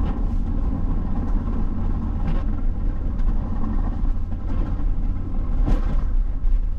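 Pickup truck running, heard from inside the cab: a steady low engine and road rumble.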